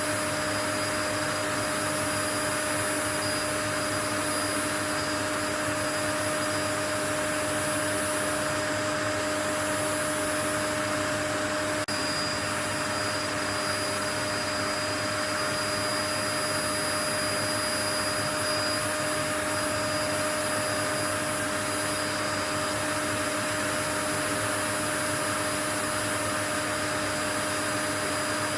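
Steady white noise: an even, unchanging hiss with a few faint steady tones running through it.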